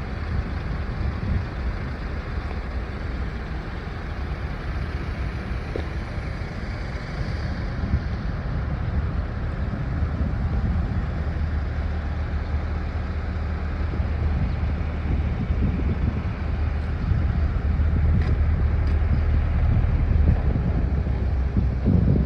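Nissan Datsun pickup truck on the move: a steady low engine rumble with road and wind noise, growing slightly louder in the second half.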